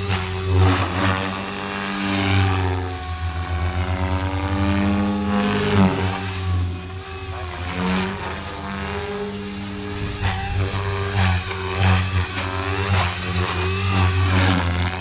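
Blade Fusion 480 electric RC helicopter flying in idle-up, the whine of its motor and main rotor rising and falling in pitch as the rotor loads and unloads through manoeuvres, over a steady rotor chop.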